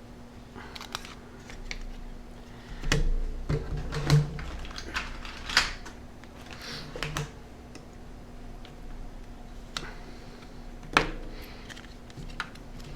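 Irregular light clicks and taps of the plastic housing and small parts of a Sharp Zaurus SL-6000D handheld being handled and pressed back together, with a few louder clicks around four seconds in and again near eleven seconds.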